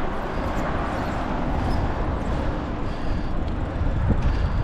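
Steady rushing and rumbling noise from wind over the microphone of a moving bicycle, with the hum of the tyres on the road, no pitch and no distinct knocks.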